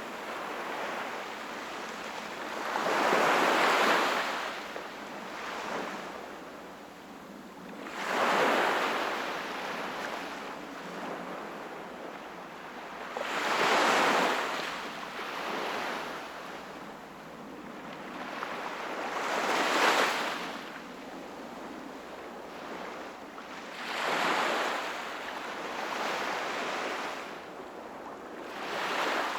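Sea waves breaking and washing onto the shore, swelling into a loud surge about every five to six seconds, with a softer steady wash of water in between.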